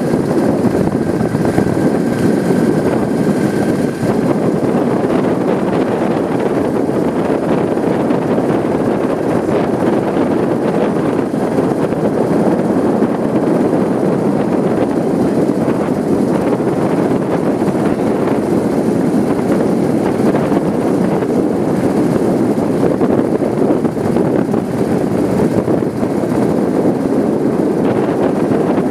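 Steady rush of wind and road noise from riding a bike, the wind buffeting the microphone.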